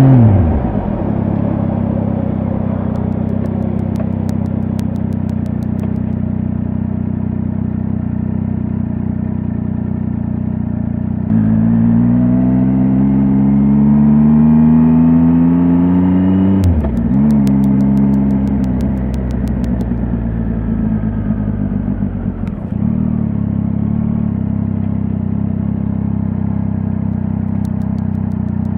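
Triumph Tiger 800 XRT motorcycle's three-cylinder engine: revs drop to a steady idle at the start, then about eleven seconds in it pulls away with the pitch rising for several seconds, drops sharply at a gear change, picks up briefly, and settles back to idle.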